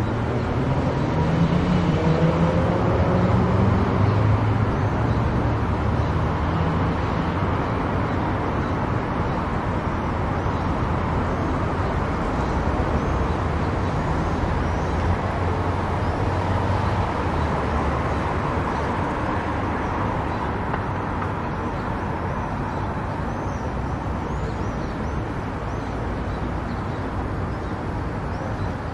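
Car driving at highway speed: steady tyre and road noise with engine drone. A pitched engine hum swells in the first few seconds, then settles.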